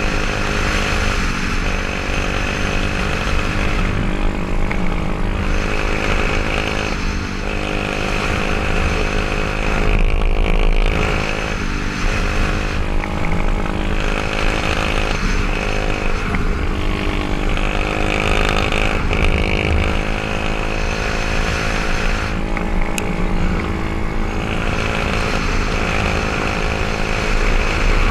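124cc pit bike's single-cylinder four-stroke engine and exhaust running, loud and steady, with the engine note dipping briefly every few seconds.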